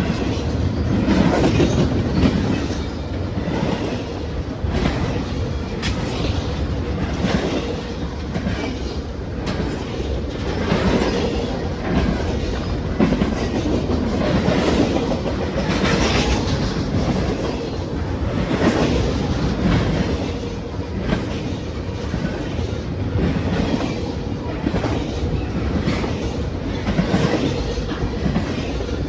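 Norfolk Southern freight train rolling past, a steady rumble of wheels and cars with repeated clicks and clunks as the wheels cross rail joints.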